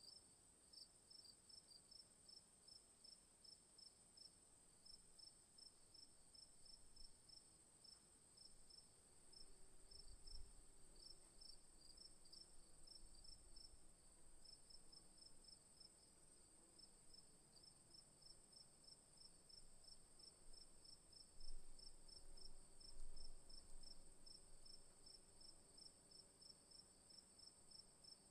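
Faint insect chorus: a steady high-pitched drone with crickets chirping in quick, even pulses about four times a second. A couple of soft low rumbles come in about ten seconds in and again past twenty seconds.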